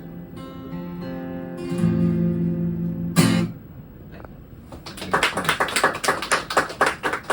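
The song ends on a held, ringing guitar chord, cut off by one loud final band hit about three seconds in. After a short lull, an audience starts clapping about five seconds in.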